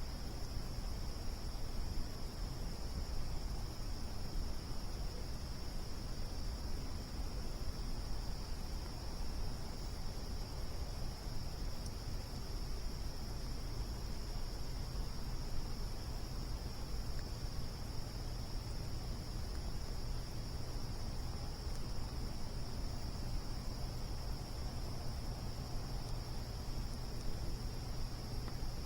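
Crickets trilling in a steady, unbroken high-pitched chorus over a low, even rumble.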